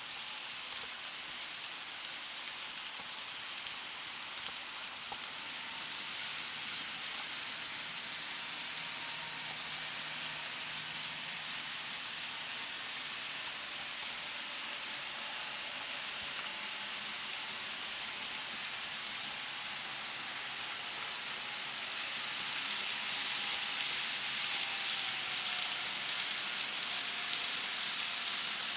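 N-scale model train running on the layout's track: a steady, hissy whir from the small locomotive motor and wheels, with a faint motor tone that drops slightly in pitch near the end.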